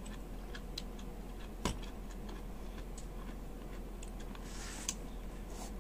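Sparse soft mouth clicks and smacks of a man chewing close to the microphone, with one sharper click a little under two seconds in and a short hiss near the end.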